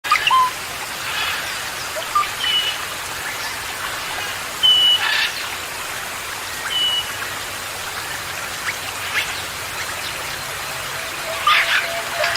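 Songbirds calling with short, clear whistled notes and quick chirps every second or two, over a steady hiss of falling or running water.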